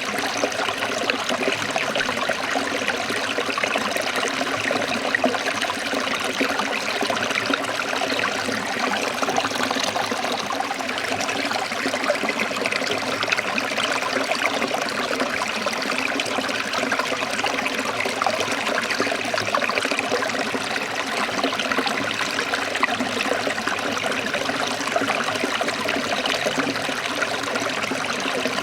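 Shallow forest stream trickling and splashing over rocks in a steady, unbroken babble.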